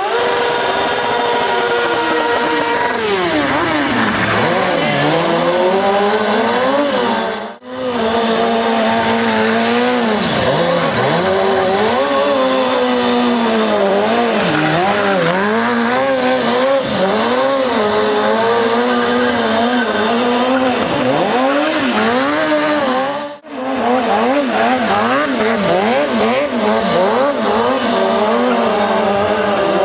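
Stunt motorcycle engine revving up and down constantly during circle-wheelie tricks, its pitch rising and falling every second or so. The sound cuts out briefly and suddenly twice, about 7 and 23 seconds in.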